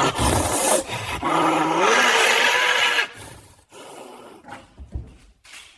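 Angry caracal growling and hissing in two loud outbursts over the first three seconds, then a few softer knocks and scuffs.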